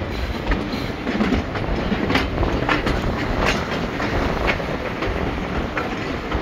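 Railway coach running along the track, heard from inside the coach: a steady rumble with irregular clicks and knocks as the wheels pass over rail joints.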